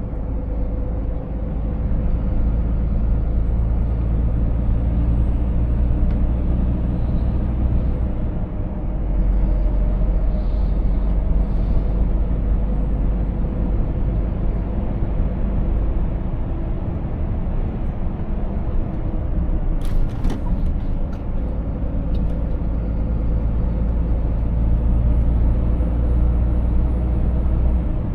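Scania 500S truck's 13-litre straight-six diesel engine and tyres running steadily on the road, a constant low rumble. A short cluster of sharp clicks or knocks comes about two-thirds of the way through.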